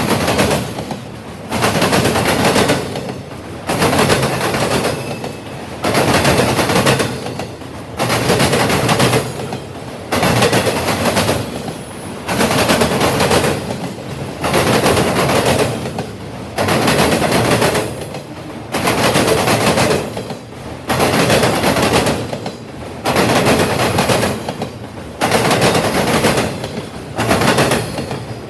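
Freight cars rolling past close by, the wheel and rolling noise rising sharply and fading with each car, about one every two seconds.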